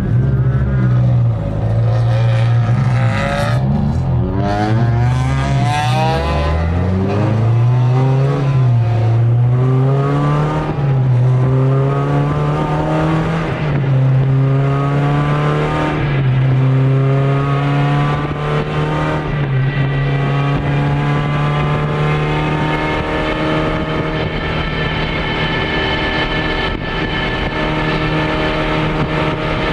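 Rally car's engine heard from inside the cabin, revving up through the gears with several shifts in pitch over the first ten seconds or so, then running steadily at a constant high pitch at speed.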